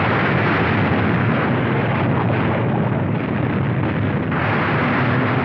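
Newsreel sound-effects track for the erupting volcano: a dense, steady rumbling noise of eruption and crashing debris.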